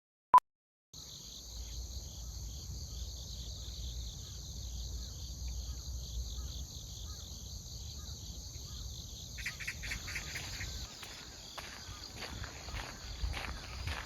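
A short electronic beep, then after about a second a steady chorus of crickets and other grass insects chirring, over a low rumble. About two-thirds of the way in, footsteps on the path join the insects.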